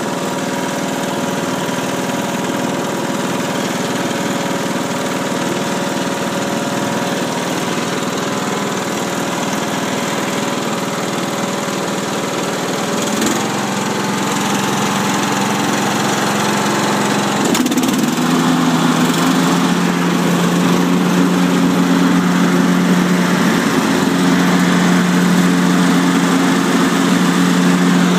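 Husqvarna YTH21K46 lawn tractor's 21 hp Kohler engine running steadily. Its engine note shifts about halfway through, then again a few seconds later, after which it runs a little louder.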